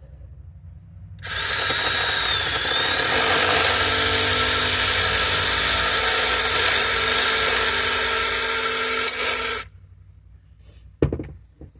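A handheld power tool starts, runs steadily for about eight seconds while cutting a plastic door trim piece, then stops abruptly. A couple of short knocks follow near the end.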